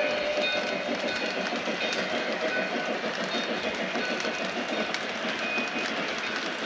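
Model train running along its track: a steady, fast clatter of wheels rattling over the rails.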